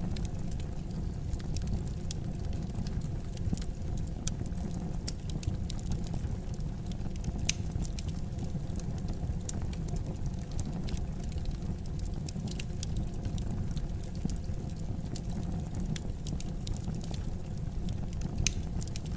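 Fire burning in a fireplace: a steady low rumble with irregular sharp crackles and pops scattered throughout.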